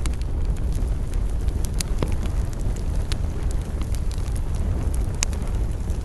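Campfire burning: a steady low rumble of flames with scattered sharp crackles and pops from the burning wood, the loudest pop about five seconds in.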